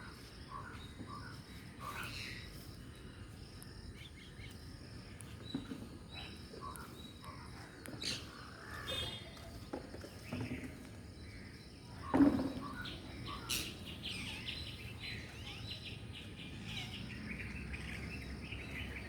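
Parrots chirping and chattering in short, scattered calls, with a stretch of rapid chatter after the middle. There is one short, louder sound about twelve seconds in.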